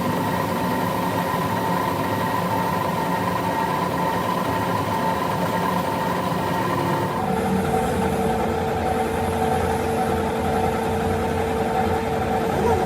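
Steady machine running, with a held tone. About seven seconds in, the sound changes abruptly and a lower steady tone takes over.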